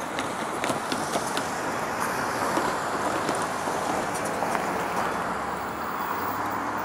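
Train cars rolling past: a steady rushing noise of steel wheels on rail, with scattered sharp clicks.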